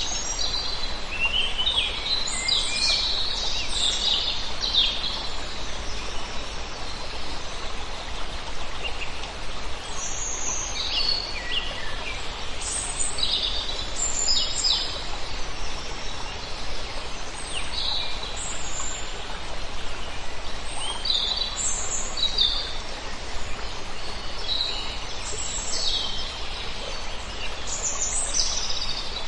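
A flock of many birds chirping and calling, overlapping short high calls coming every second or so, over a steady background hiss.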